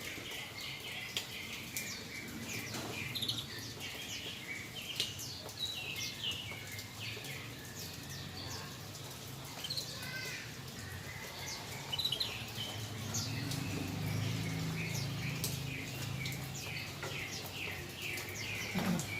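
Sooty-headed bulbul chirping repeatedly, a steady run of short, quickly falling notes, over a constant hiss. A faint low hum comes in past the middle.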